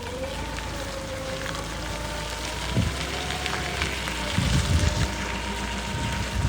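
Mitsubishi FG25T forklift running, its engine giving a steady rumble with a thin whine over it, and a few low thumps about three seconds in, around four and a half to five seconds, and at the end.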